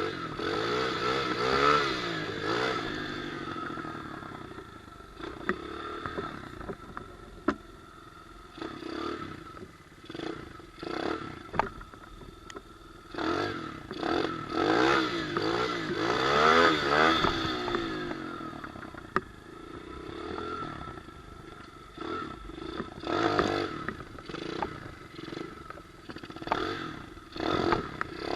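Pit bike engine revving up and falling back as it is ridden, with hard rev-ups near the start and again around the middle. Rattles and knocks come from the bike throughout.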